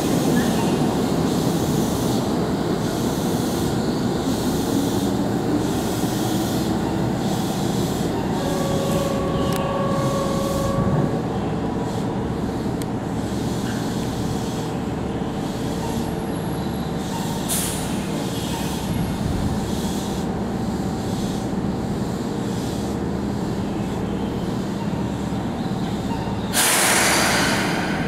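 Keihan electric train running through the station, with steady rail noise and a regular low beat about once a second. A brief steady tone sounds about a third of the way in, and a short burst of hiss comes near the end.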